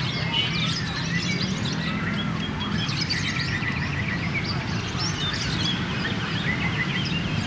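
Many caged songbirds singing and chirping at once in a bird-singing contest, their trills and whistles overlapping continuously, over a low steady murmur of the crowd.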